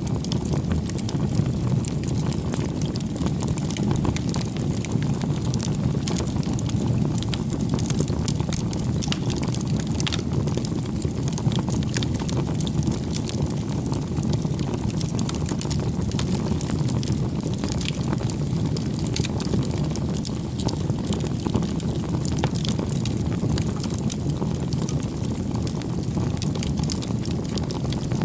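Wood fire burning: a steady low rush of flame with frequent small, sharp crackles and pops.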